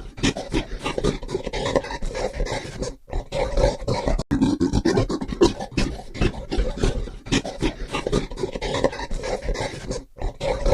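An animal calling in a dense run of rapid, harsh calls, with a short break about three seconds in and another near the end.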